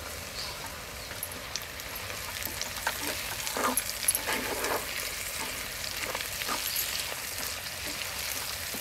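Chopped onions, green chillies and spring onion greens sizzling in hot oil in a pan, stirred with a wooden spatula. The spatula scrapes against the pan in short strokes, busiest from about two and a half seconds in.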